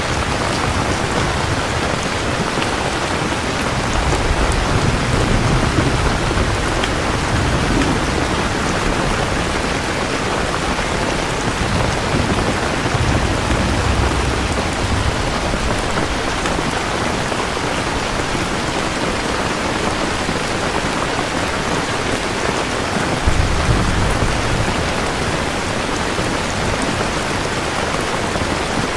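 Steady heavy rain, with low rolls of distant thunder swelling up several times, loudest about a quarter of the way in and again near the three-quarter mark.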